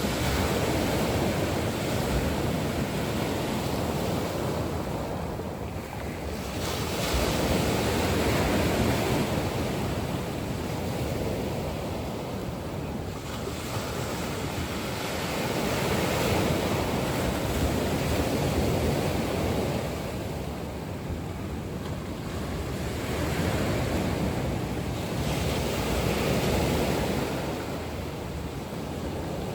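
Sea waves breaking and washing up on a shore, a steady rush that swells and ebbs every several seconds.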